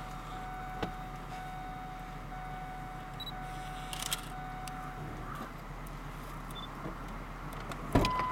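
A car idling, heard from inside the vehicle as a steady low hum. A faint steady whine runs for about the first five seconds. A few sharp clicks sound, the sharpest about eight seconds in.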